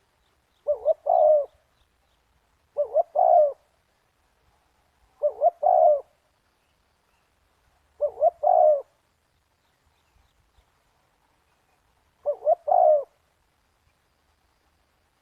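Spotted dove cooing: five phrases of three low notes each, the last note the longest, repeated every two to three seconds, with a longer pause before the last phrase.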